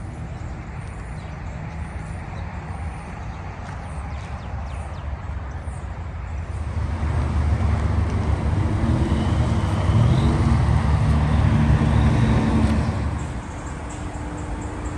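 VW Passat 1.8-litre turbo four-cylinder running with no muffler, a steady low exhaust drone. It swells louder for several seconds in the middle and eases off again near the end.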